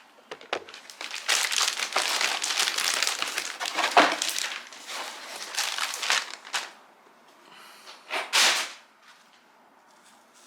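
Parcel packaging crinkling and rustling as it is handled and opened, dense for several seconds with a sharp crackle about four seconds in, then one short crinkle near the end.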